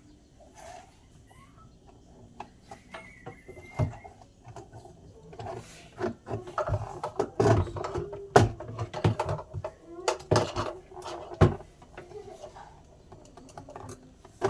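Irregular knocks, clicks and clatter of hard objects being handled, sparse at first and busiest in the middle seconds, with a few louder knocks.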